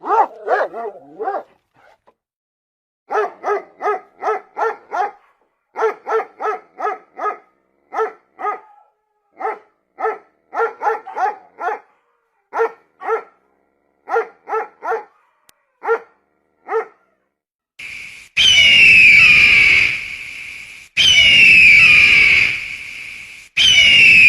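A dog barking: a long run of short, quick barks in bursts. Near the end come three long, loud calls from a different animal.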